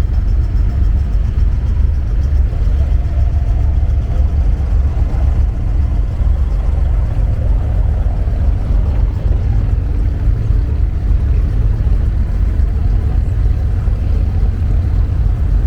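Boat engine running steadily under way, heard on board as a continuous low rumble.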